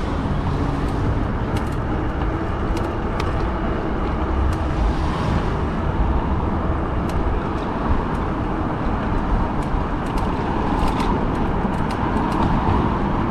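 Riding noise from a fat-tire e-bike rolling through city traffic: steady wind rush on the microphone and road noise, with scattered light ticks and rattles.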